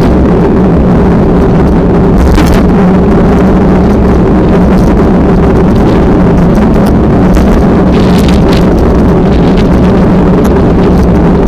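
Loud, steady low rumble of strong wind buffeting the microphone during movement, with a steady drone beneath it and a few faint clicks.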